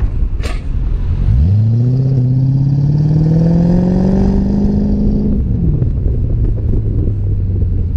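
Mercedes-Benz W215 CL500's V8 through an AMG exhaust, revved: the note jumps up, climbs steadily for about four seconds, then drops back to idle and runs on evenly. Wind rumbles on the microphone throughout.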